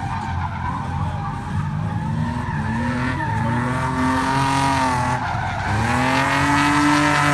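BMW E36 328is straight-six engine revving hard while drifting, over the noise of skidding tyres. The engine note climbs and holds, drops sharply about five and a half seconds in, then climbs again.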